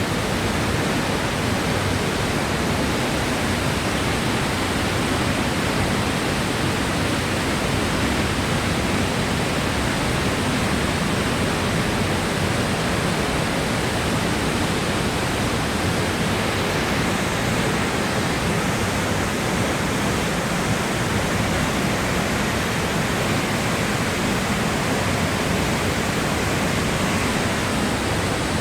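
Kozjak waterfall pouring into its pool: a loud, steady rush of falling water.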